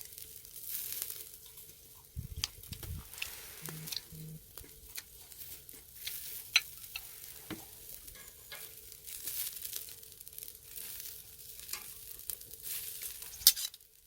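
Pork neck sizzling on a grill over a charcoal brazier, a steady hiss with scattered sharp clicks and crackles. There are a few low thumps about two seconds in and one loud click near the end.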